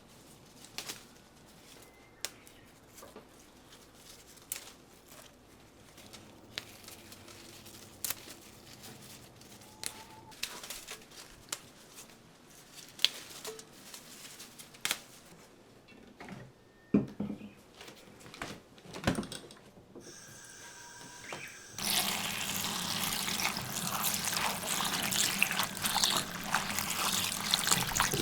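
Scattered light clicks and knocks of things being handled. About three-quarters of the way through, water suddenly starts running and splashing steadily.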